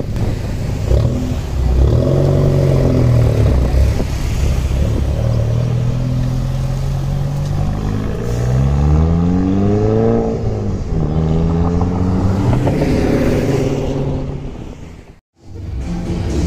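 Volkswagen cars pulling away on the road, a lowered Golf hatchback and a CC sedan, their engine note holding steady and then rising in pitch as they accelerate. The pitch drops at a gear change about ten seconds in and climbs again. The sound cuts out abruptly near the end.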